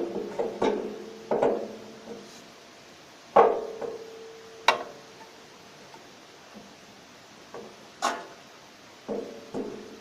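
Steel stove door knocking and clanking against the stove body as it is worked back onto its hinge pins: about eight sharp knocks at uneven intervals, several leaving a brief metallic ring.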